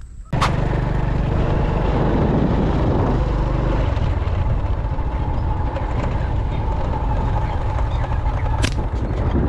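A vehicle engine running steadily under a heavy rushing noise, cutting in suddenly about a third of a second in, with a sharp click near the end.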